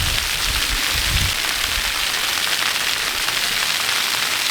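Steady rushing hiss of a waterfall's falling water, with a low rumble in the first second or so.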